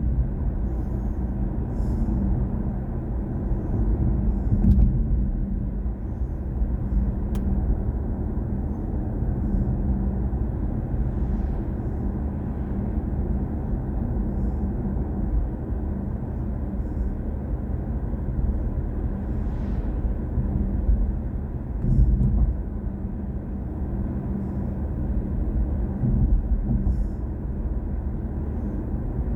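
Steady road and tyre rumble from a BMW i4 M50 electric car driving at an even speed, with no engine note; a few faint ticks over it.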